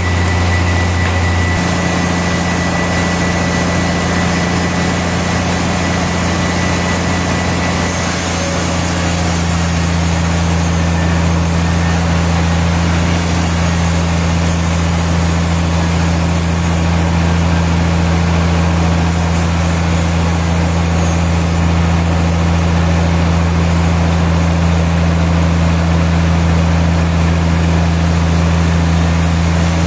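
Sawmill machinery running steadily with a constant low engine-like hum.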